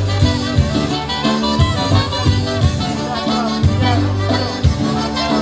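Live polka band playing an instrumental stretch of a fast minor-key oberek between sung verses, horns over a steady bass-and-drum beat.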